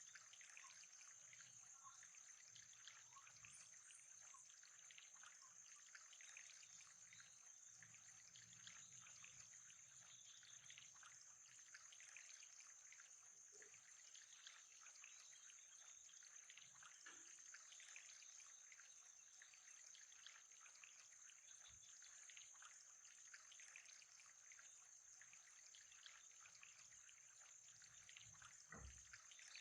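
Faint trickling water over a steady thin high-pitched tone.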